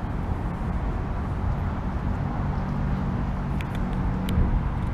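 Steady low outdoor rumble of background noise, with a few faint clicks near the end.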